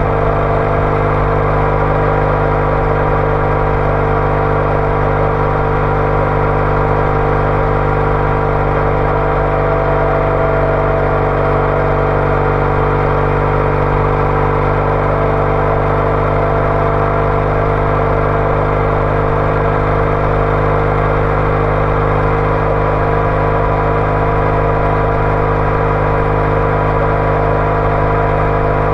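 Triumph Bonneville T214's air-cooled parallel-twin engine running through a TOGA aftermarket exhaust, cruising at a steady engine speed with no gear changes or revving.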